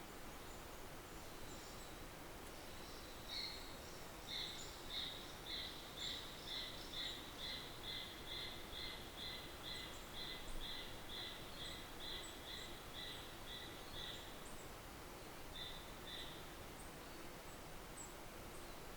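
A bird calling a long series of short, evenly spaced high notes, about two a second, for some ten seconds, then two more after a short pause, over a steady outdoor hiss.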